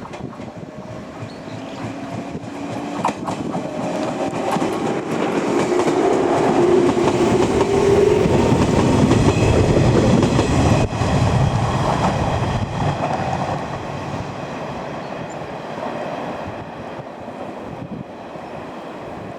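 Three-car 115 series electric train running past on the rails, wheels clacking over the rail joints, with a rising motor whine in the first half. It grows to its loudest about halfway through, then fades as it moves away.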